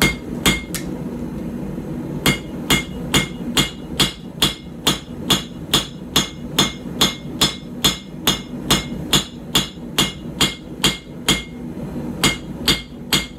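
Hand hammer striking a hot puukko blade on the edge of an anvil to forge in the bevel, each blow with a short metallic ring. Two blows, a short pause, then a steady run of about two and a half blows a second, broken by a brief pause near the end.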